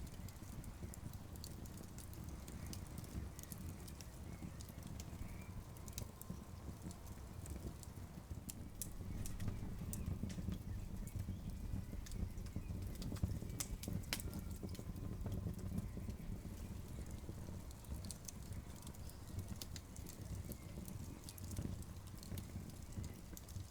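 Campfire crackling, with irregular sharp pops and snaps over a low, steady rumble. The pops come thicker and louder in the middle stretch.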